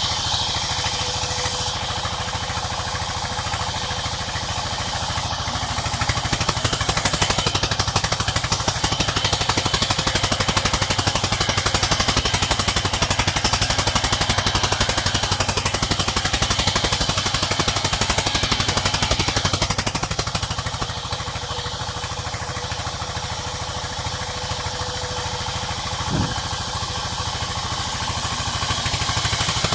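Sawmill machinery running steadily with a dense mechanical rattle, growing louder about six seconds in and easing off about twenty seconds in, then rising again near the end, as the saw takes a cut through the wood. A short knock sounds a few seconds before the end.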